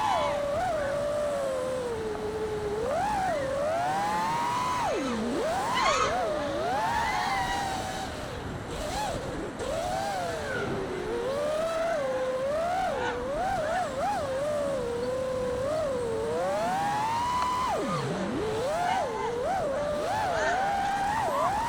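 5-inch FPV quadcopter's T-Motor Pacer 2306 1750kv brushless motors and propellers whining, the pitch rising and falling constantly with the throttle. There are two sharp drops in pitch followed by fast climbs, one about five seconds in and one near the end.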